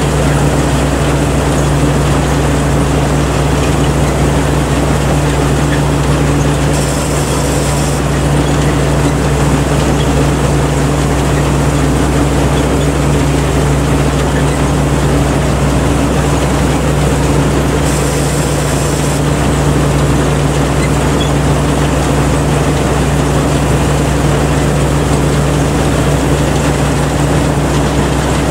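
Rice combine harvester running steadily, its engine held at a constant speed. A brief high hiss sounds twice, about seven and eighteen seconds in.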